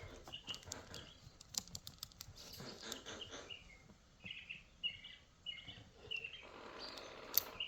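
Pet birds chirping in short, repeated calls, about two a second, through the second half, with a few faint clicks.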